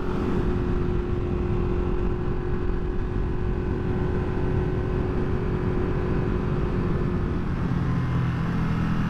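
Motorcycle engine running at a steady cruising pace from the rider's point of view, with wind and road noise. About seven and a half seconds in, the engine note changes to a lower, fuller tone.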